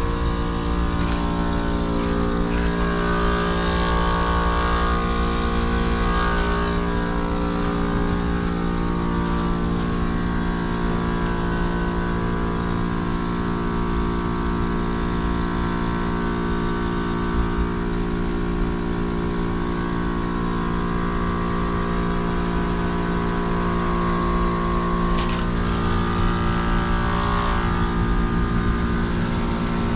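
2009 Carrier heat pump outdoor unit running, its compressor giving a steady hum with many overtones over a low rumble. A brief tick about seventeen seconds in.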